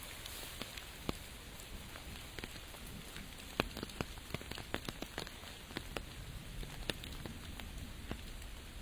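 Steady rain, with scattered individual drops tapping sharply and close by, most thickly in the middle of the stretch.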